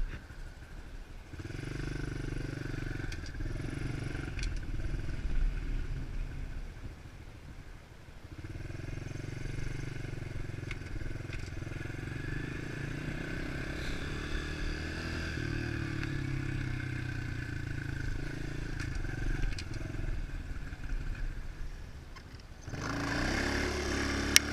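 110cc pitbike's single-cylinder four-stroke engine running hard in gear with the rear tire spinning, during a fourth-gear burnout attempt. The engine note dips briefly, then runs steady, and about two seconds before the end the revs climb and it gets louder.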